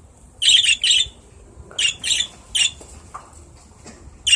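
Two pet birds giving short, harsh squawking calls, about five of them in quick clusters with a pause between, which the owner takes for the pair squabbling.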